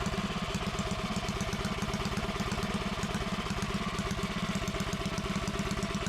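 Predator 212 single-cylinder small engine idling steadily with no load during its first break-in run.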